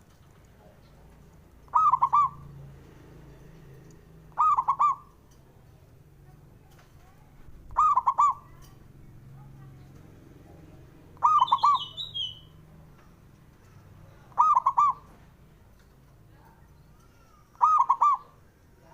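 Zebra dove (perkutut) cooing: six short calls, each a quick run of notes, repeated about every three seconds. A brief, higher chirp comes partway through.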